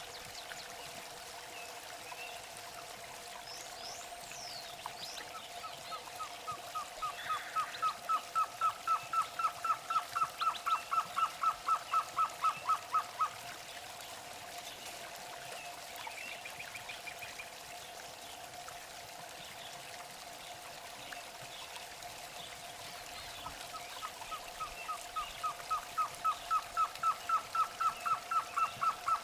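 A bird calling in long, rapid series of repeated notes. Each series builds in loudness over several seconds and then stops abruptly: one starts about five seconds in, the next about twenty-three seconds in. Fainter calls from other birds and a steady hum sit underneath.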